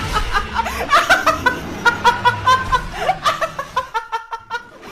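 High-pitched laughter in rapid, repeated bursts, quickening into an even string of short pulses near the end.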